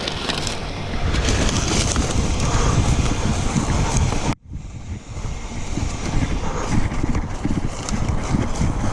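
Wind rushing and buffeting over the microphone while riding along a trail. It breaks off abruptly for an instant about four and a half seconds in, then carries on.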